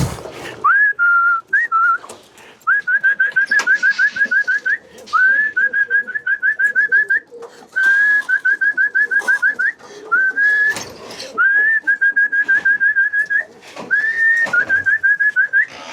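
A person whistling a recall to pigeons: bouts that open with a longer rising note and run on into quick short upswept chirps, about five or six a second, repeated several times to call the tipplers down and into the loft.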